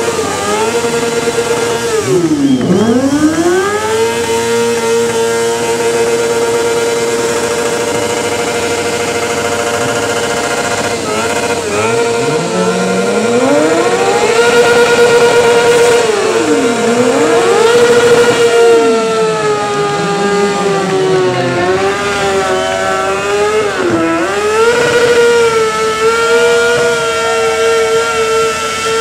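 Several motorcycle engines revving hard during a burnout: one holds a steady high pitch throughout while others drop and climb again, over a constant hiss of spinning tyres.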